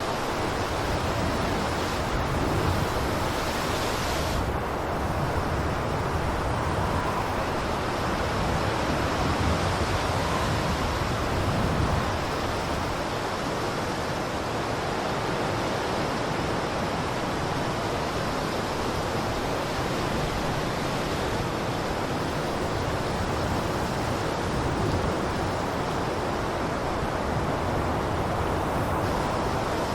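Blizzard wind blowing as a steady, dense rushing noise with gentle swells in strength.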